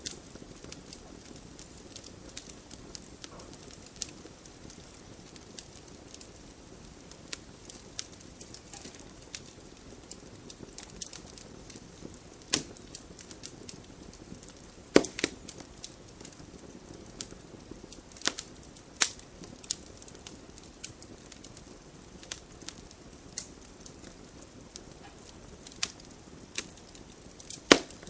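Wood fire burning in a fireplace, crackling and popping at irregular intervals over a low steady hiss, with a few louder sharp pops.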